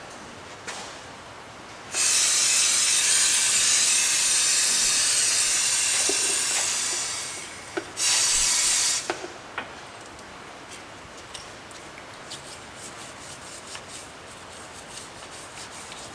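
Pressurized spray hissing in a long blast of about five seconds that tails off, then a second short blast about a second later, followed by light clicks.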